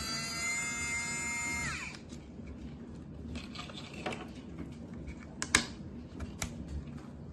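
A small motor's steady whine drops in pitch and stops about two seconds in. Faint scattered clicks and knocks of handling follow.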